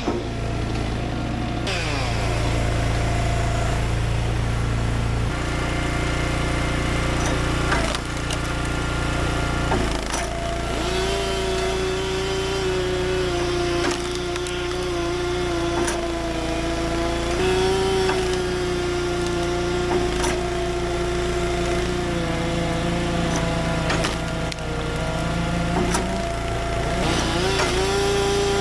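Stihl chainsaw running at high revs while bucking logs, its pitch sagging under load in the cut and recovering, over a steadier low engine drone, with occasional sharp knocks of wood.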